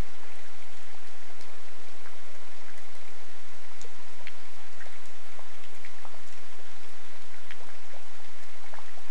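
Steady rain falling, with many separate drops ticking sharply at irregular intervals.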